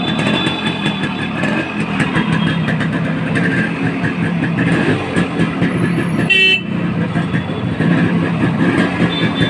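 Vehicle engine running steadily, with one short horn toot about six seconds in.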